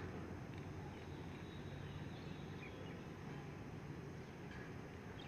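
Quiet outdoor background with a few faint, short bird chirps.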